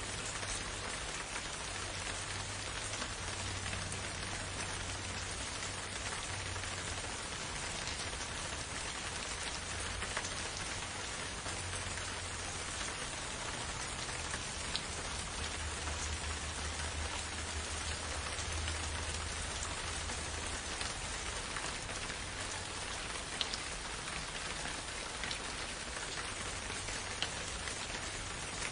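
Steady rain falling, with scattered louder drop ticks. A faint low rumble comes and goes underneath, swelling in the middle.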